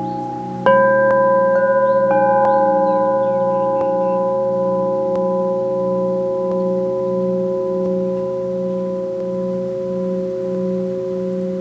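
Crystal singing bowls struck and left ringing. A fresh strike comes about a second in, with a few lighter strikes just after. Several long, overlapping tones sustain, the lowest wavering in a slow, regular beat.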